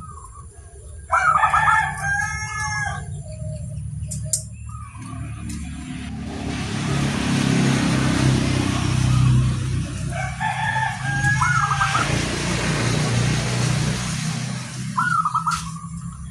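A rooster crowing twice, about a second in and again about ten seconds in, over the low rumble of a passing motor vehicle that swells and fades through the middle. Near the end a zebra dove (perkutut) starts its short, wavering coo.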